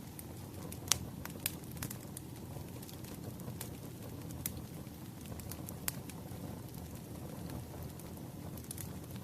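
A wood fire burning steadily with a low rumble, its firewood popping and crackling in scattered sharp snaps, the loudest about a second in and again near six seconds.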